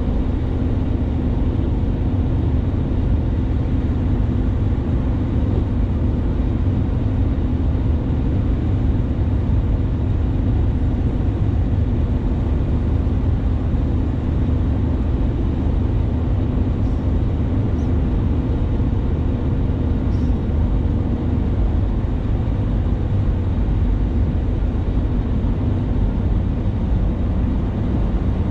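Steady road and engine noise of a vehicle driving, a constant low rumble with a faint hum.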